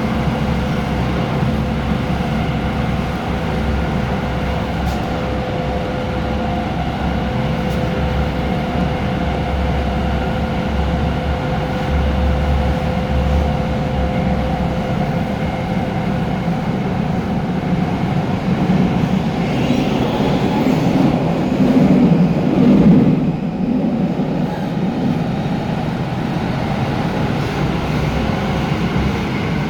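Hong Kong MTR Tung Chung line K-train, a Korean-built Hyundai Rotem metro train, running at speed with a continuous rail rumble. A steady motor tone sits over the rumble and fades out near the end, and the noise swells louder for a few seconds about two-thirds of the way through.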